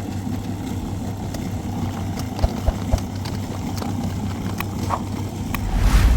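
Steady low mechanical drone, engine-like, with two sharp knocks about two and a half and three seconds in and a brief rush of noise near the end.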